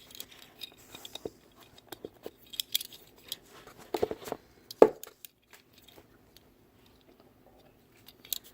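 Small clicks, taps and scrapes of fingers handling a die-cast model car, trying to pry its tiny opening hood, with a louder knock a little under five seconds in.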